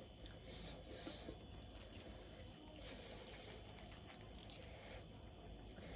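Faint chewing and soft crunching of a person eating, in scattered small bites.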